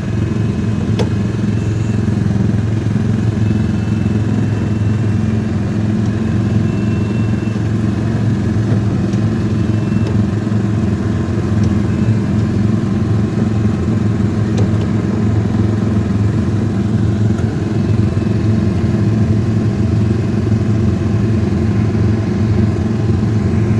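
Car engine running with a steady low hum, heard from inside the cabin, with no change in pace throughout.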